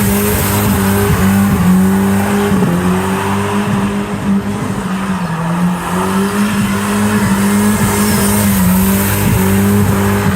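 A car's engine held at steady high revs as it drifts, with tyre squeal. The engine note dips briefly a few times.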